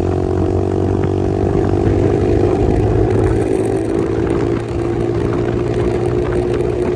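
Pit bike engine running under throttle in first gear, its note fairly steady, with a brief dip about four and a half seconds in.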